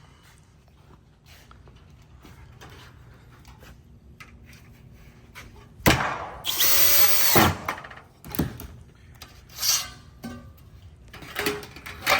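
After several quiet seconds, a power screw gun runs for about a second, driving a fastener into the metal roof trim. It is followed by several separate sharp clicks and knocks of metal being handled.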